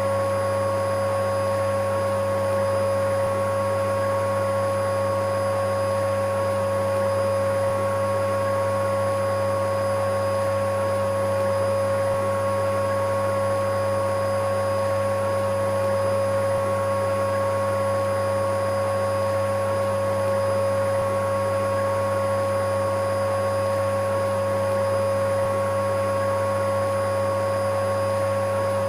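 Electric vacuum cleaner running steadily, its motor holding one unchanging pitch over a constant rushing of air.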